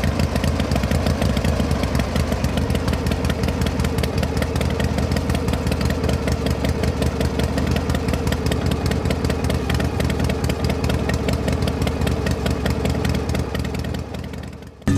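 Small engine of a DIY mini tractor running steadily at idle with a rapid even beat, fading out in the last second.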